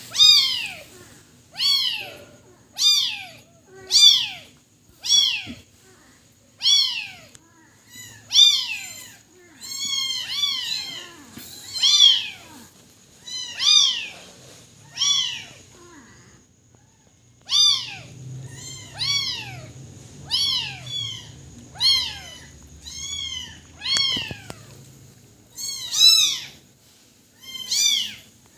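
A kitten mewing over and over: short, high-pitched cries that rise and fall in pitch, about one a second.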